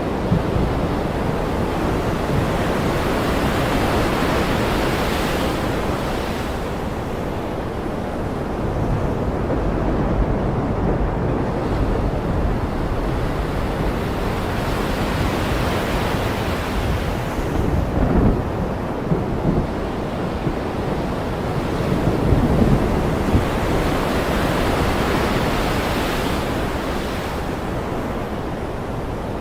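Ocean surf breaking and washing in slow swells about every ten seconds, over a steady low rumble of thunder.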